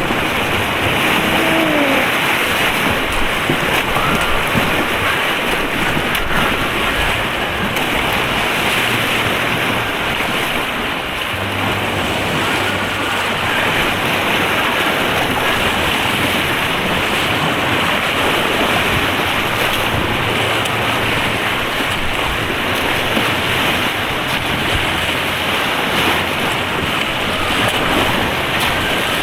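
Steady, loud rush of white-water rapids heard close up from a kayak on an artificial slalom course.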